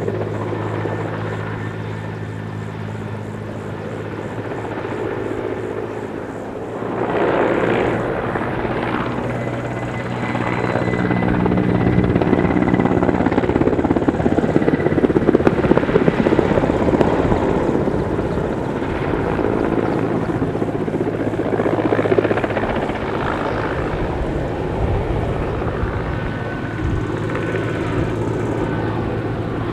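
Helicopter flying a display pass: a steady rotor and turbine sound with a low hum. It swells about seven seconds in and is loudest through the middle, then eases off slightly.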